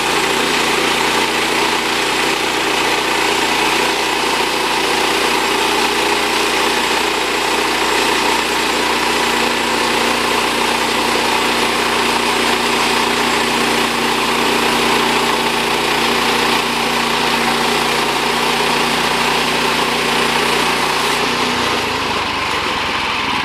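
Engine-driven portable bandsaw sawmill running steadily as its blade cuts through a log. The sound shifts and drops a little near the end.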